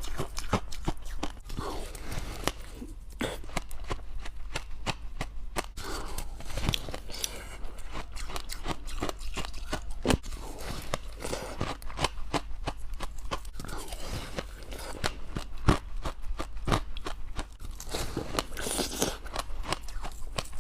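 Close-up crunching and chewing of soft frost ice, a dense, irregular run of crisp crunches with no pause.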